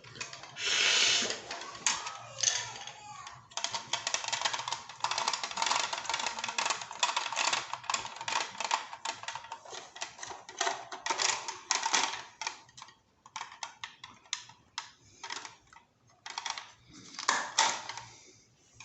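Rapid, irregular clicking and clattering of small hard parts being handled, with a short hiss about a second in.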